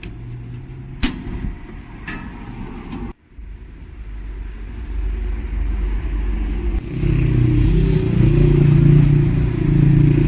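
Engine running with a steady low rumble that grows louder about seven seconds in, after three sharp clicks or knocks in the first two seconds.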